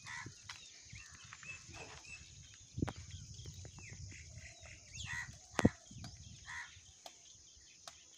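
Scattered short bird and fowl calls over a low outdoor rumble, with two sharp knocks, the louder one about five and a half seconds in.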